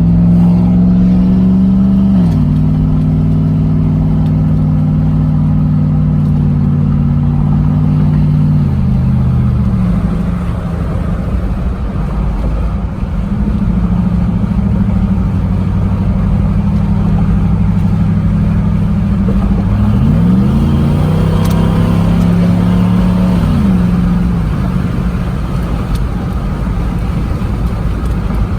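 Straight-piped V8 exhaust of a 2007 Jeep Grand Cherokee on the move, droning loudly at a steady pitch. The pitch drops as the engine eases off about two seconds in and again around nine seconds, then climbs back up as it revs about twenty seconds in and falls again soon after.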